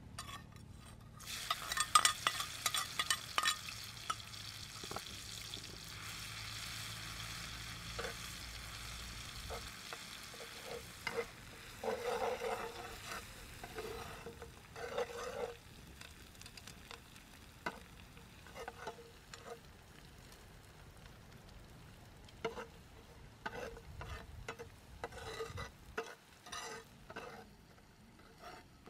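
Chopped chili, tomato and garlic sizzling as they go into hot oil in a clay pan over a wood fire, loudest just after they go in and fading over several seconds. Then a knife blade scrapes and stirs the mixture around the earthenware pan in repeated short strokes.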